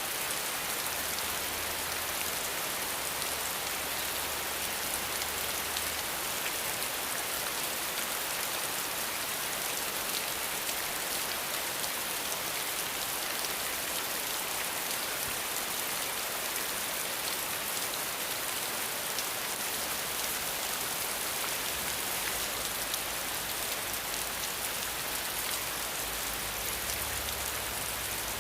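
Steady rain falling, a dense, even hiss of many drops.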